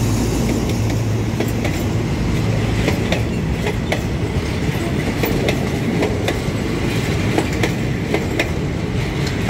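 Passenger coaches of a diesel-hauled train rolling past at close range: a steady rumble with repeated sharp clicks of the wheels over the rail joints. The locomotive's low engine hum dies away in the first second or so.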